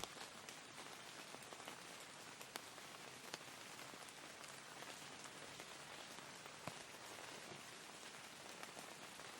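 Soft, steady rain falling, with a few louder individual drops ticking now and then.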